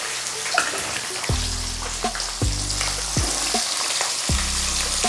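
Peanuts and chopped green chillies sizzling in hot oil in a kadai, stirred with a wooden spatula.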